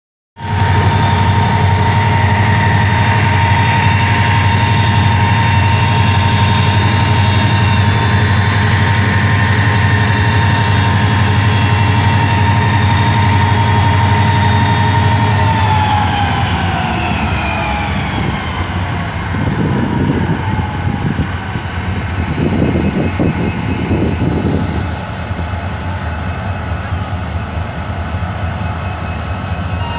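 Diesel locomotive engine running loud with a high turbo whine. About halfway through, the whine and engine pitch glide down as it throttles back and settle to a lower, steady run, with two bursts of rough noise in between.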